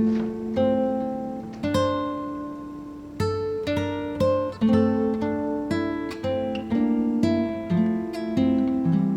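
Background music: acoustic guitar playing picked and strummed chords, each note starting sharply and fading.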